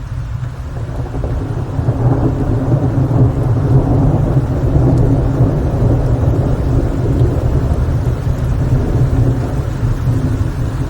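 Rain with a long, low roll of thunder that builds over the first two seconds and eases slightly near the end.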